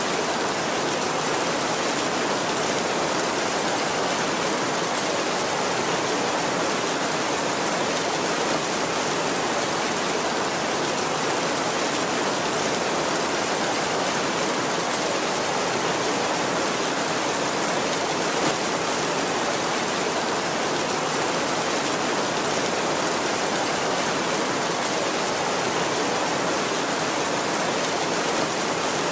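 Heavy rain falling on a tin roof, a dense, even hiss that holds steady throughout with no thunder.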